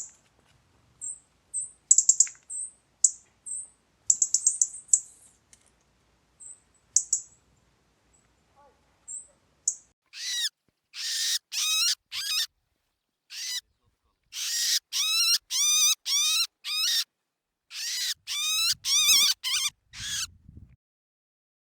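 Bird calls. First come sparse, very high, thin chirps. From about ten seconds in, a series of louder, harsher calls follows, each sweeping up in pitch, coming in groups of two to four.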